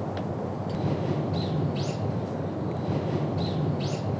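A bird repeating a short two-note chirp twice, about two seconds apart, over a steady low rumble of outdoor ambience.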